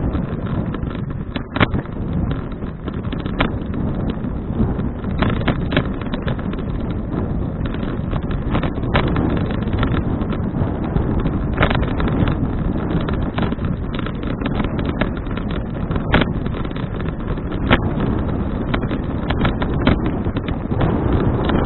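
Wind buffeting the microphone of an action camera on a moving bicycle: a dense, steady low rumble, broken by scattered sharp clicks.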